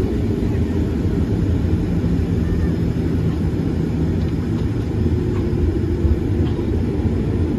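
Jet airliner engines running at takeoff power, a steady low rumble as the plane takes off.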